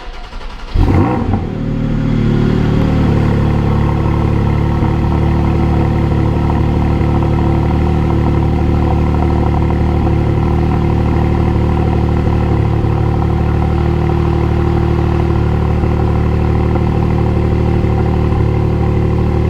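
Porsche 718 Spyder's 4.0-litre flat-six engine starting up: it catches about a second in with a short flare in revs, then settles into a steady idle.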